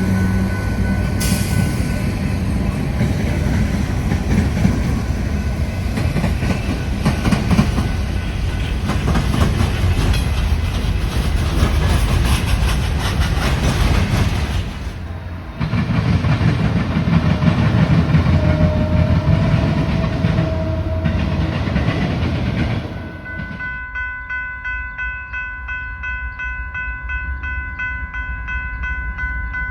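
Trains passing close by: a loud, steady rumble and clatter of wheels on rail, broken by a short drop about halfway. Near the end the rumble gives way to a quieter stretch with several steady high tones and a faint regular pulse.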